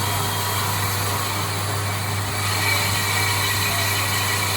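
A lathe running with a steady, unbroken machine hum and an even hiss over it.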